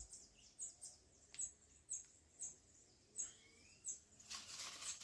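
Faint bird chirping: short high chirps repeating about twice a second, with a few lower curved whistled notes. A brief burst of noise comes about four seconds in.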